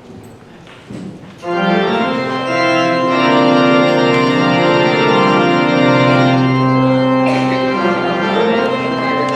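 Church organ playing sustained, held chords, which come in loudly about a second and a half in after a few faint knocks.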